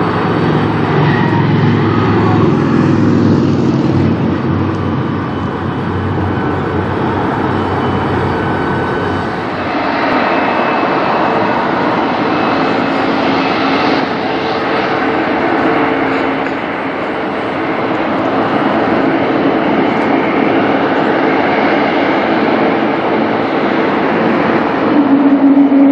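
Jet airliner engines running at high power as the aircraft takes off: a loud, steady rushing noise with faint whining tones. The sound shifts in character about ten seconds in.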